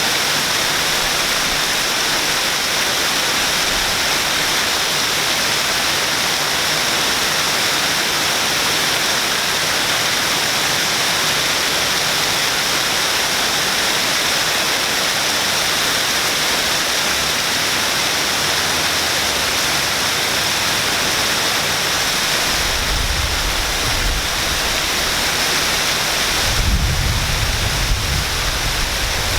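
Waterfall pouring and splashing: a steady, loud rushing hiss. About three-quarters of the way through, a low rumble joins it and grows stronger near the end.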